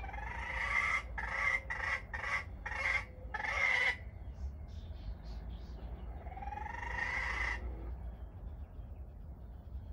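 A bird's harsh calls: a quick run of about six in the first four seconds, then one longer call that rises in pitch about seven seconds in. Faint high chirps from small birds come in between.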